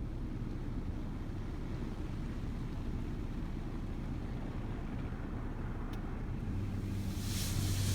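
Automatic car wash heard from inside the car's cabin: a steady low rumble, a single tick about six seconds in, then a low hum setting in and a hissing spray rising near the end.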